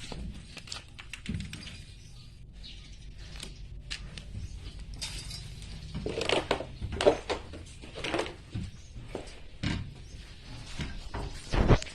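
Irregular knocking, clattering and scraping from hand work on the house, growing busier and louder from about halfway through, with a heavy thump near the end.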